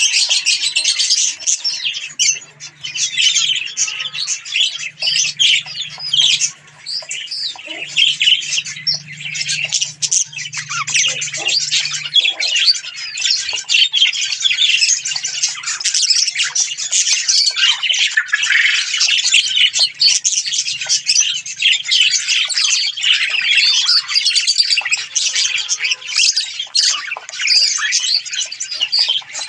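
Budgerigars chattering continuously: a dense run of rapid chirps, squawks and warbles.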